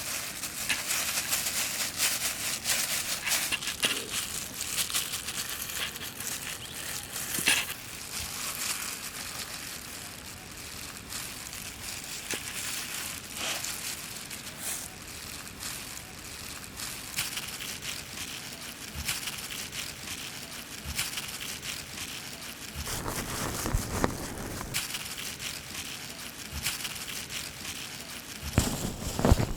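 Thin spring roll pastry sheets being peeled apart and handled, a steady papery crinkling and rustling dotted with small crackles, with a few heavier handling knocks near the end.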